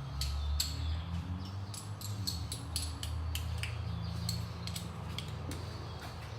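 Irregular light metallic clicks and clinks of a 10 mm socket and ratchet working an ignition-coil hold-down bolt, at about two to four a second, over a steady low hum.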